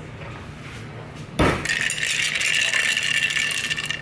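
A sharp knock on the kitchen counter, then a small kitchen appliance starts and runs steadily with a high whir and a rattle, while iced coffee is being made.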